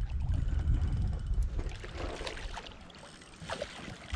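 Wind rumbling on the microphone for about the first two seconds, then quieter, with a few faint short knocks or splashes.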